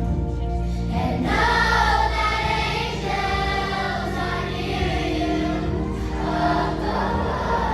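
A choir singing with musical accompaniment, holding long notes.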